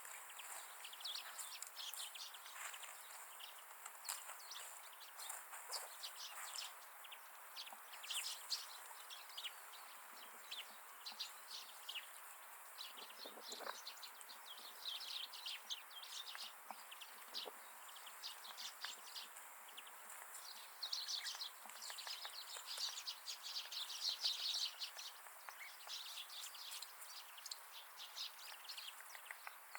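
Many small wild birds chirping and twittering in quick, overlapping calls. The calls are busiest about halfway through and again a few seconds before the end.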